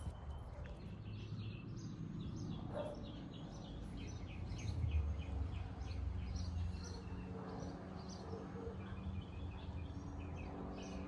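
Small garden birds chirping in short, repeated calls over a steady low background rumble.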